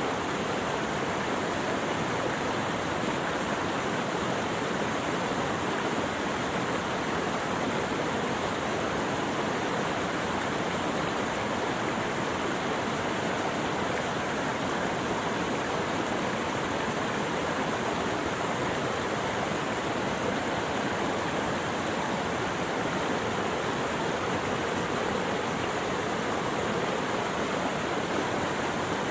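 Flowing water rushing steadily: an even, unbroken noise that is fullest in the middle range and does not change.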